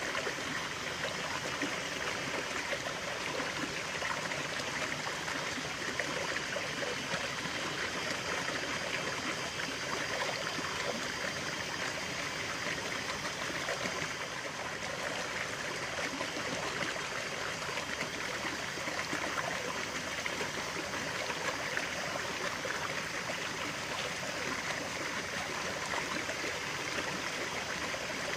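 Natural stream running steadily, water splashing and trickling over stones in an even, unbroken rush.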